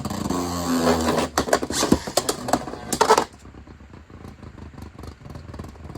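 Two spinning Beyblade tops, a 3D-printed Ares and a Beyblade X Hell Scythe, whirring and clacking against each other in a plastic stadium, with rapid hard collisions. About three seconds in the clashing stops, typical of one top being knocked out in an Xtreme finish, leaving only faint rattles.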